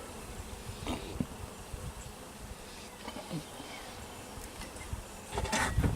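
Many honey bees buzzing steadily around an open hive, with a few light knocks and a louder noise near the end.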